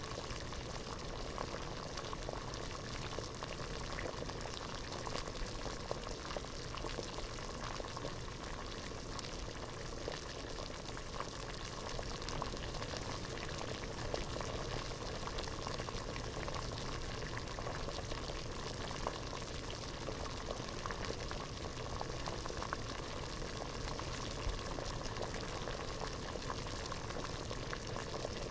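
Water boiling hard in a pot, a steady bubbling with many small pops and gurgles.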